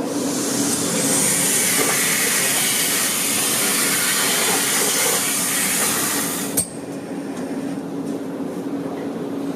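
Centralized industrial vacuum system running with a steady hum, air and material rushing through the suction hose as it picks up metal shavings and lubricant. There is a sharp clack about six and a half seconds in, after which the rushing drops and the machine runs on more quietly.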